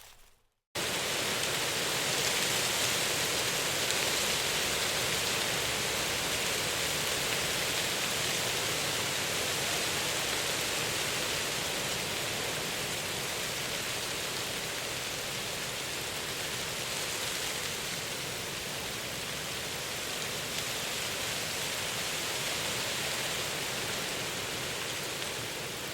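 Steady, even rushing of water, cutting in abruptly about a second in after a brief silence.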